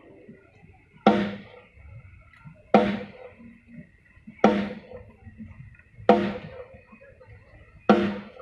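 A single drum struck one hit at a time through a PA system, five evenly spaced strokes about every second and a half to two seconds, each ringing briefly: a drum sound check. A faint steady high tone hangs between the hits.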